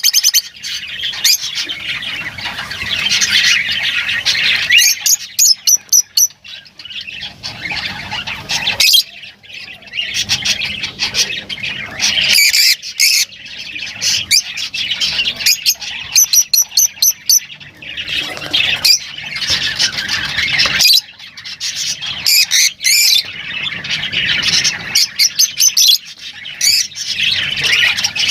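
Lovebirds chattering and squawking almost continuously, shrill and high-pitched, broken every few seconds by quick runs of sharp repeated chirps.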